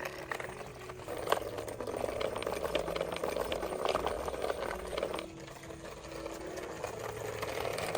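Rattling, clicking rumble of a loaded hand cart's wheels rolling over a rough path, growing louder about a second in, with soft background music underneath.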